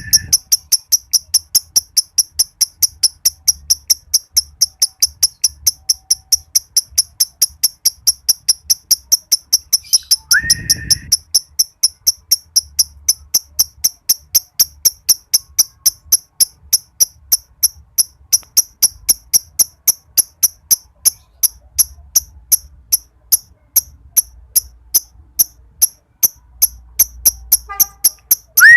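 Green lovebird doing its long 'ngekek' chatter: sharp high chirps repeated several times a second without a break, the long-running trill of a male in breeding condition. A short rising whistle cuts in once about ten seconds in.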